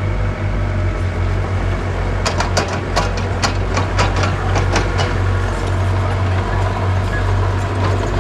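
Heavy diesel construction machinery engine running steadily with a deep hum, with a quick run of about ten sharp knocks over a few seconds near the middle.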